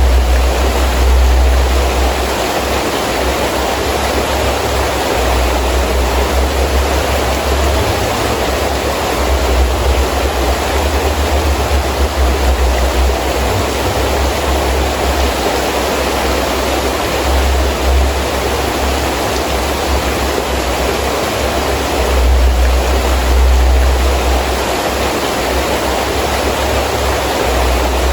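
Heavy rain falling steadily, with wind gusting through it: a low rumble that swells and eases every few seconds.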